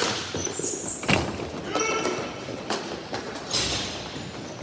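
Ball hockey play: sharp knocks of sticks and the ball, the loudest about a second in and again near three and a half seconds, over the clatter and echo of a rink.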